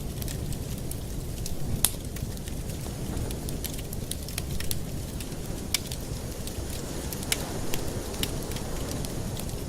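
Fire burning in a fireplace, crackling with irregular sharp pops over a steady low rumble; the loudest pops come about two seconds and six seconds in.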